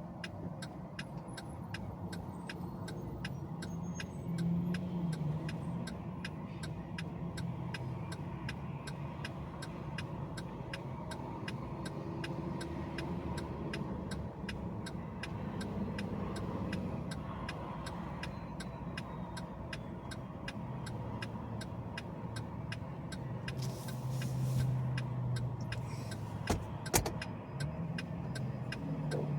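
Car driving, with steady engine and road noise whose low hum shifts a little with speed. Faint, evenly spaced ticks run through it, and a few sharp knocks come near the end.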